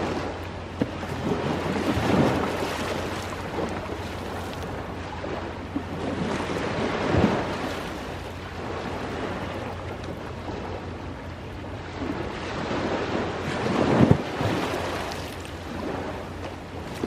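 Ocean waves washing onto the shore in a steady rush that swells three times, with a few short sharp pops in between.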